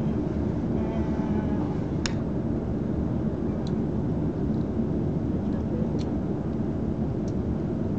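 Running noise of a passenger train at speed, heard inside the carriage: a steady low rumble with a few sharp clicks now and then.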